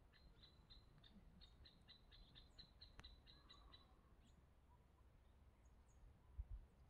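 Faint bird calls: a run of short, high notes repeated about five times a second for the first four seconds, then a few scattered higher chirps. A brief low thump near the end.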